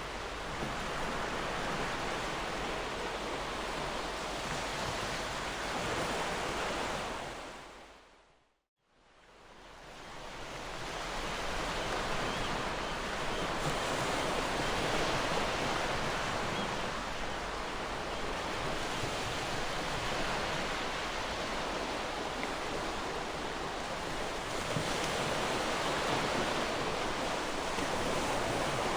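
Gentle ocean waves washing in, a steady rushing surf that swells and eases. About a third of the way through it fades out to silence and fades back in over a few seconds, the crossfade of a looped recording.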